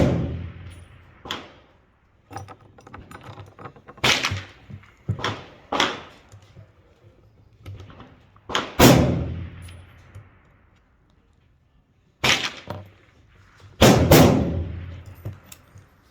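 Rifle shots, about eight at irregular intervals, each a sharp crack followed by a long echoing decay; the loudest comes about nine seconds in.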